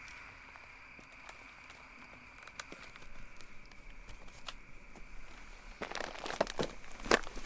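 Dry plant material rustling and crackling, sparse at first and turning into a dense run of crackles near the end, over a steady high insect drone.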